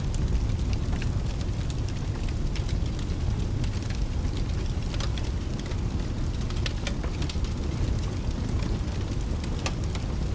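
Steady rain mixed with a crackling fireplace: a continuous low rumbling wash of rain with scattered sharp crackles and pops throughout.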